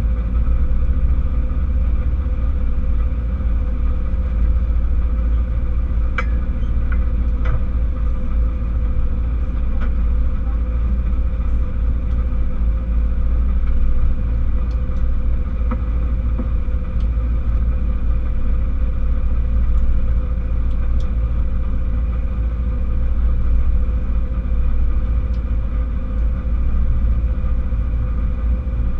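Rally car's engine idling steadily, heard from inside the stripped cabin as a deep, even rumble, with a few light clicks about six to eight seconds in.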